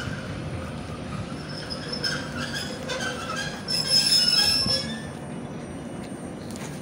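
Koleje Mazowieckie electric commuter train squealing in several high steady tones as it brakes along the platform, loudest about four seconds in, then fading away as it comes to a stop.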